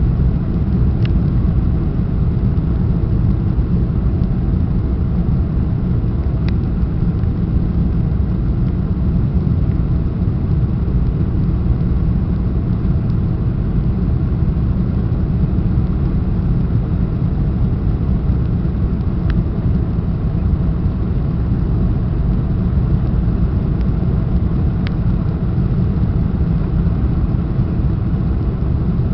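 Steady cabin noise inside a Boeing 747-400 airliner in flight: a deep, even rumble of the engines and airflow, with a few faint ticks.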